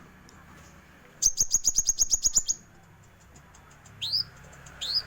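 Bird singing: a rapid high trill of about a dozen notes lasting over a second, then two short rising whistled notes near the end.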